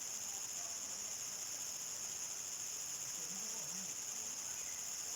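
Crickets chirring in a steady, high-pitched chorus at nightfall in the countryside.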